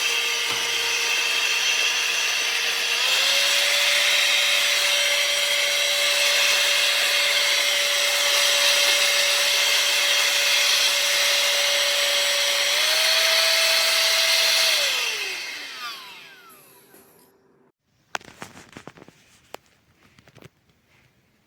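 Cordless handheld vacuum cleaner running with a steady high motor whine and hiss. Its pitch steps up twice, a few seconds in and again later. It is then switched off and winds down to a stop, leaving a few light clicks and knocks of handling near the end.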